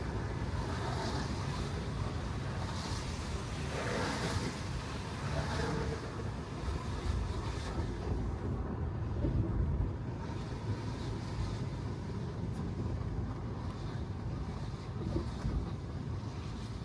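Steady road and tyre noise of an electric car driving on wet pavement: a low rumble with a hiss of tyres on the wet road that swells a few times in the first half.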